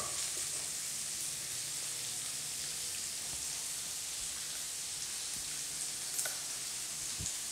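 Chicken pieces frying in hot oil in a non-stick wok, a steady high sizzle as they brown. A short knock comes at the very start, and light clicks come about six and seven seconds in.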